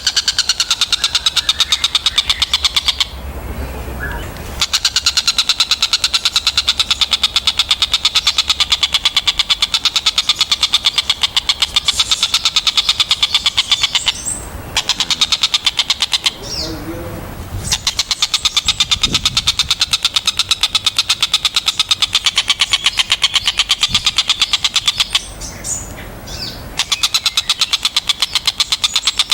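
Tengkek buto calling in long strings of rapid, sharp repeated notes, a fast chattering trill. It breaks off a few times for a second or two, then starts again.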